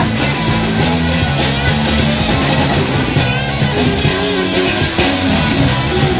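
Live rock band playing an instrumental passage: guitar over bass and a drum kit keeping a steady beat.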